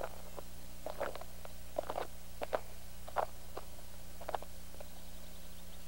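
Footsteps rustling and snapping through leafy undergrowth, about a dozen irregular short steps, over a steady low hum.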